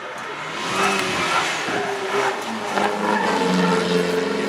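Rally car engine revving as the car approaches, getting louder, its engine note rising and falling.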